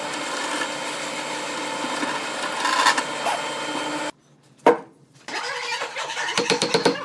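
A power tool's motor running steadily, then stopping abruptly about four seconds in. A single sharp click follows, then a run of quick knocks and taps.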